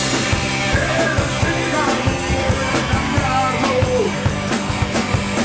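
Rock band playing a fast, loud number, with a busy drum kit hitting several times a second under guitars and a melody line.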